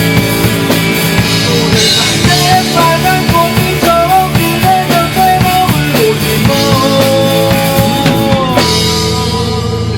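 Rock band playing live: drum kit, bass and a bending lead melody. About eight and a half seconds in the drums stop and a held chord rings on, like the final chord of a song.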